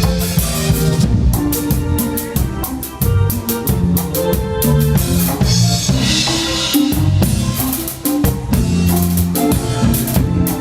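Cumbia band playing live at a sound check, the drum kit and bass most prominent: held bass notes under a busy run of kick, snare and cymbal hits.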